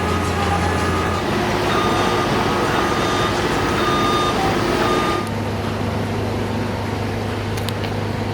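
Heavy construction machinery running, with a reversing alarm beeping about once a second for several seconds. The alarm stops about five seconds in, and the engine hum changes pitch.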